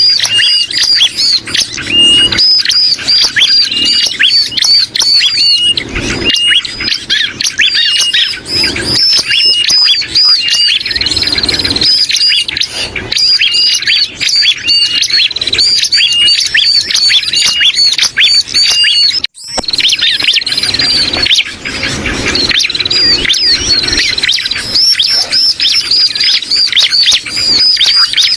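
Bird-lure recording of bar-winged prinia (ciblek) calls mixed with agitated and distress calls of sooty-headed bulbul (kutilang): loud, rapid, continuous chattering of short high chirps, with a brief break about 19 seconds in.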